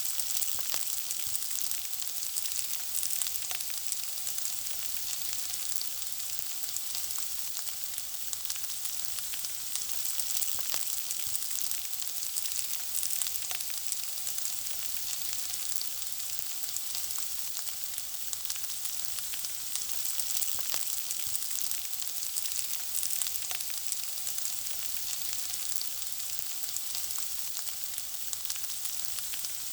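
Food frying in hot oil: a steady, high sizzle dotted with many small crackling pops.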